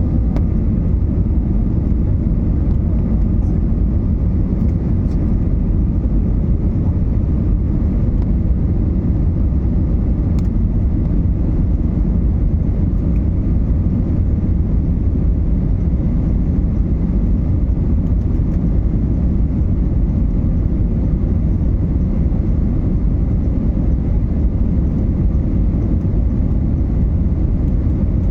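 Steady low rumble of engine and airflow noise heard inside the cabin of an Airbus A320neo airliner.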